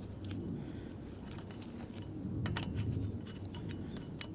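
Scattered light metallic clicks and clinks of hand tools and small bicycle parts being handled, over a low steady hum.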